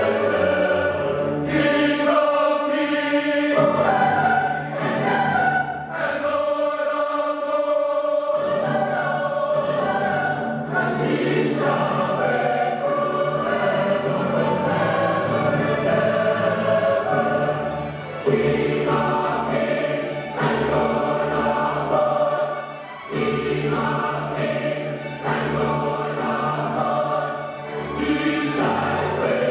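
A high school choir singing.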